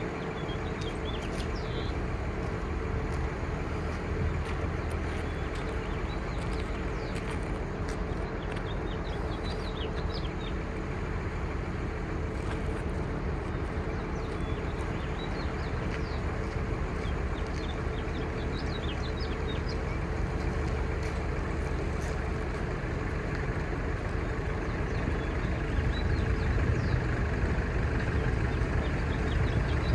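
5.9L Cummins six-cylinder turbo diesel of a Ford F800 crane truck running steadily at a low, even speed, getting a little louder near the end. Faint bird chirps come and go over it.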